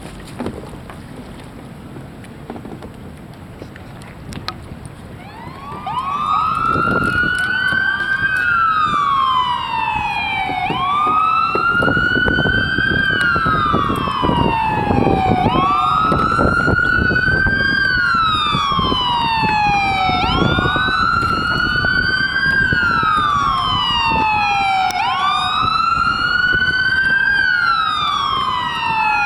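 Low wind and water noise at first. About six seconds in, Baltimore City Fire Department sirens start wailing: two or more overlap, each rising quickly and falling slowly about every three seconds.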